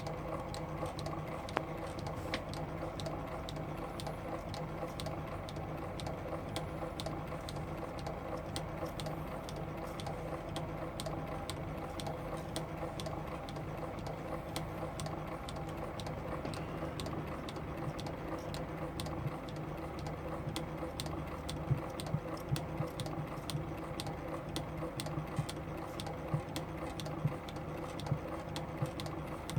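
8mm film projector running: a steady mechanical whirr and hum with a dense clatter of ticks from the film advancing through the gate.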